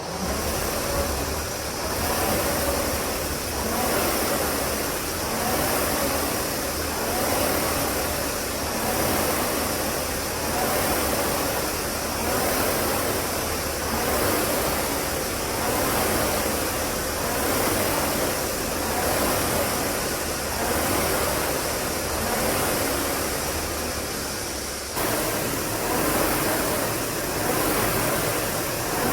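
Concept2 rowing machine's air-resistance fan flywheel spinning, its rushing air noise swelling with each stroke in an even rhythm of about one stroke every two seconds.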